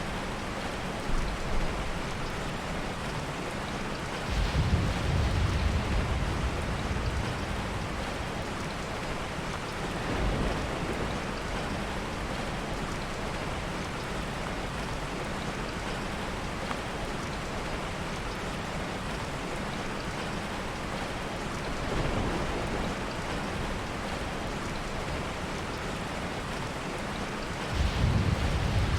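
Steady heavy rain, with soft rolls of low thunder swelling about four seconds in, twice more in the middle and again near the end. Two brief sharp pops come about a second in.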